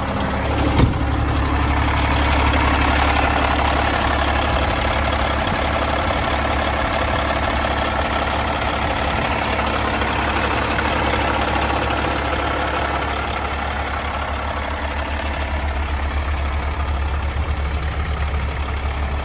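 Cummins X15 inline-six diesel in a Peterbilt 389 truck idling steadily, with a single sharp knock about a second in.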